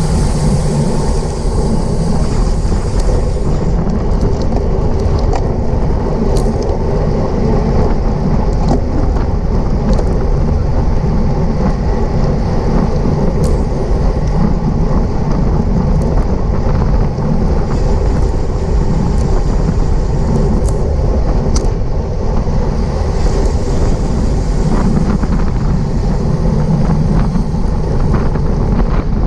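Steady rush of wind and road noise on the camera microphone of a bicycle riding at race speed, with a few faint sharp ticks.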